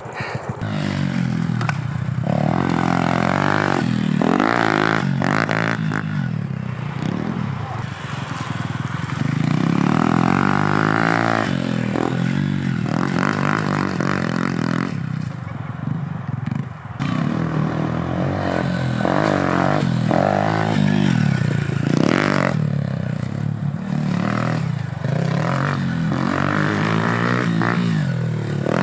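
Pit bike engine being ridden hard, revving up and dropping back again and again, its pitch rising and falling every second or two.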